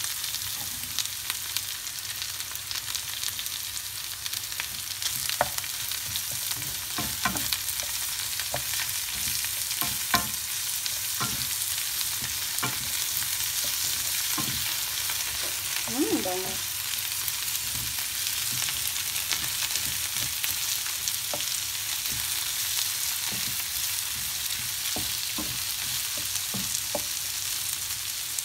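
Chicken pieces, sliced mushrooms and chopped garlic sizzling in oil in a frying pan: a steady hiss, with a wooden spatula scraping and knocking against the pan here and there as it stirs.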